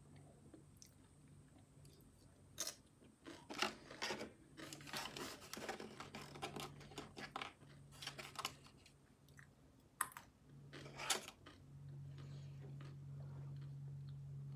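A person chewing crunchy chips, a run of crisp crunches that stops about eleven seconds in, followed by a low steady hum.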